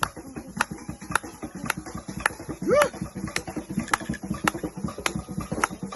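A steady beat of sharp strikes, about two a second, with one short rising-and-falling call about three seconds in.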